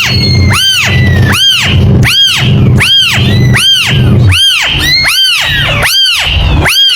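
Kitten meowing over and over in evenly spaced, high-pitched calls that each rise and fall in pitch, about three every two seconds, over a steady low hum.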